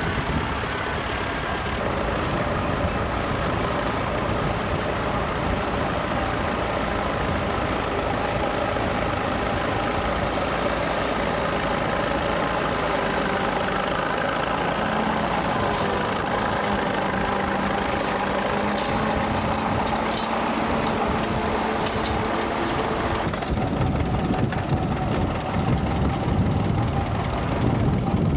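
Vintage tractor engine running steadily, with the sound changing abruptly to a deeper, rougher rumble about 23 seconds in.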